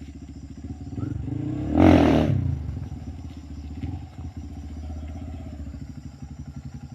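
A vehicle engine running with a fast low pulse. It swells about a second in to a loud peak around two seconds, with a brief rushing hiss, then settles back to a steady run.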